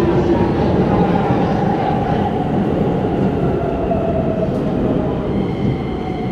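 Keikyu electric commuter train running past the platform as it pulls in, with steady running noise and a motor whine that falls slowly in pitch as the train slows.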